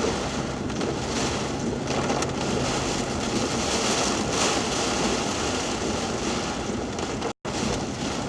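Car driving through hurricane rain and wind, heard from inside the cabin: a steady wash of rain, wind and wet-road tyre noise over the low engine. About seven seconds in, the sound cuts out for a split second.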